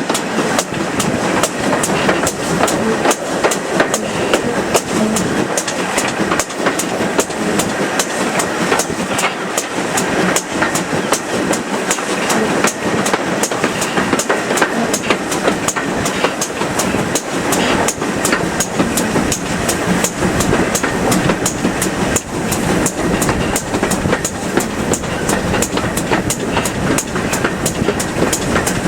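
Steam train hauled by a GWR Manor-class locomotive on the move: a loud, steady rumble with a quick, even beat of sharp clicks.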